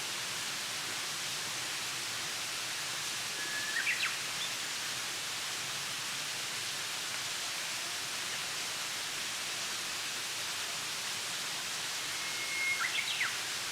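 Steady outdoor ambience with a constant hiss, and a songbird singing twice: about four seconds in and again near the end, each a short held whistle ending in a quick flourish.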